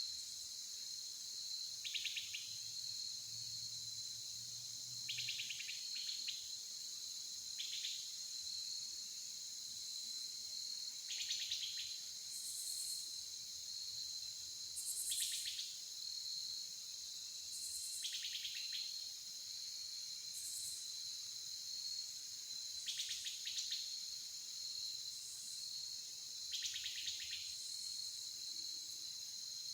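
Steady outdoor chorus of crickets and other insects: a continuous high-pitched buzz, with short trilled calls coming in every two to three seconds.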